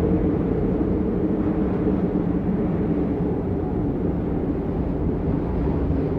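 Steady rain as white noise: an even, low, dull rush with little hiss, unchanging throughout.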